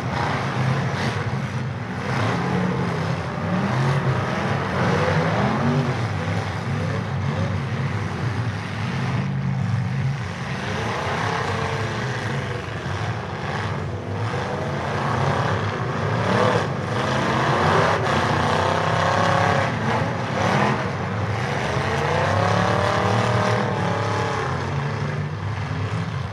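Demolition derby cars' engines running hard together, their pitch rising and falling again and again as the drivers rev up and back off, over a steady low rumble.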